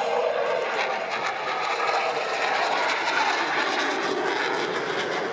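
Jet noise from the Black Eagles' T-50B jets flying the display, a steady roar whose pitch shifts slowly as they pass.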